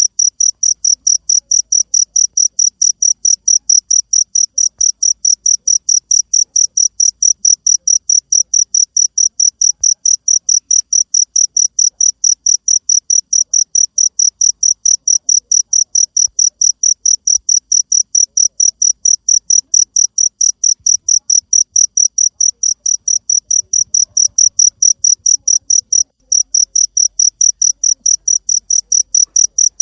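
Cricket chirping: a steady, high-pitched train of chirps at about four a second, breaking off briefly once near the end.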